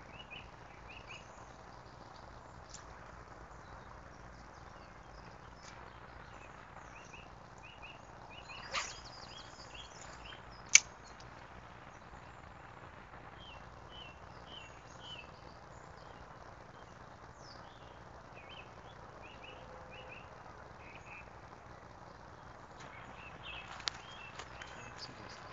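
Quiet riverbank ambience with a small bird chirping in short repeated groups of high notes, a brief rush about nine seconds in, and one sharp click about eleven seconds in.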